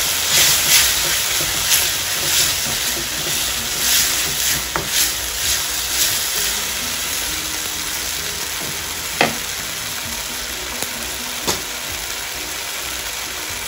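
Tomato-onion masala sizzling as it is fried down in a black iron kadai, a wooden spatula stirring and scraping it with repeated strokes over the first half. Two sharp knocks come later on.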